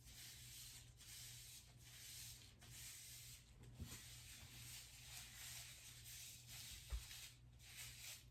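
Faint rubbing and swishing of hands working hair dye through hair, in soft swells every second or so, with a couple of light knocks.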